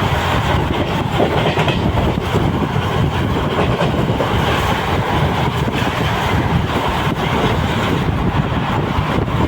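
Train running fast on the rails: a steady loud rumble with the wheels clattering over rail joints.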